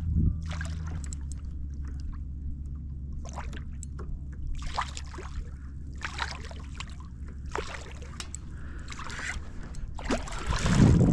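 Water lapping and splashing against a fishing kayak's hull in irregular short splashes over a steady low rumble, with a louder splash near the end.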